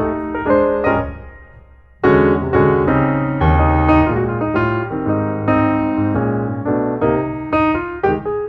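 Background piano music: the notes die away about a second in, then a new, fuller passage starts abruptly about two seconds in.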